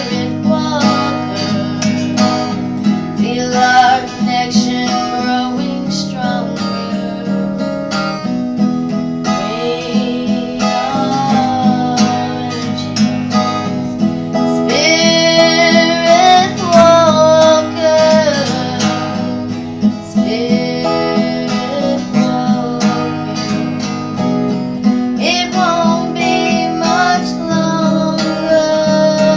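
Live song played on strummed acoustic guitar, with a singing voice at times.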